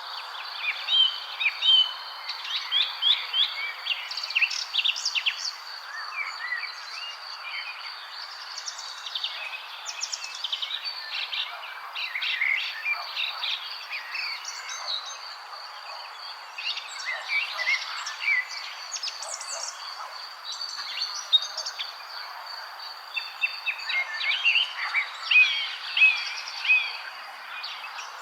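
Several birds chirping and trilling in overlapping bursts, busiest near the start, around the middle and near the end, over a steady high-pitched whine and a constant background hiss.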